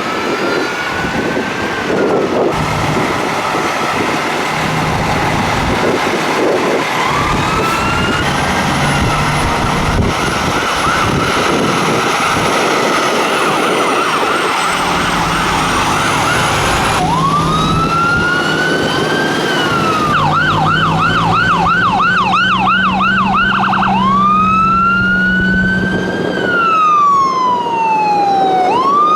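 Emergency vehicle sirens sounding as the vehicles pass in a parade: long rising and falling wails, switching to a fast yelp of about three cycles a second about two-thirds of the way in, then back to a wail. Heavy vehicle engines hum underneath.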